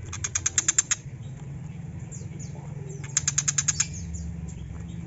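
A bird gives two short, rapid, harsh rattling chatters, each made of about eight to ten sharp notes in under a second, the first at the start and the second about three seconds in. Faint thin downslurred whistles from other birds sound between them.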